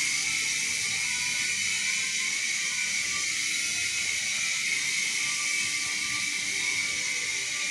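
Toy indoor RC helicopter's small electric motors and rotor blades whirring steadily in flight, a high-pitched hissing whine.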